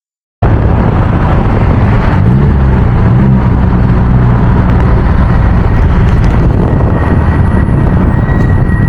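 Car engine running loud and steady, revving up and down briefly about two seconds in; it starts suddenly after a short silence.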